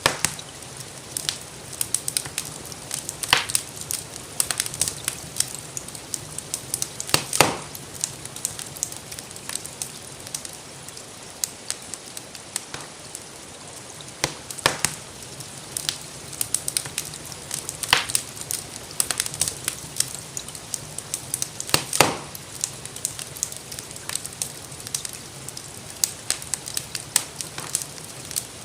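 Wood fire in a fireplace crackling, with many small pops and a few louder sharp snaps spread through, over a steady soft hiss of gentle rain.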